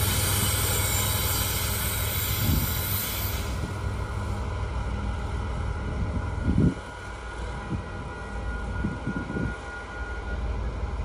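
GE ET44AC rear DPU locomotive and the tail of a long intermodal train receding, their rumble slowly fading. The high hiss drops away a few seconds in, leaving a low rumble with a few short low thumps, the loudest a little past halfway.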